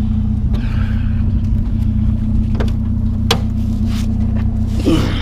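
Truck engine idling steadily, with a few sharp clicks and knocks in the second half and a brief creak near the end.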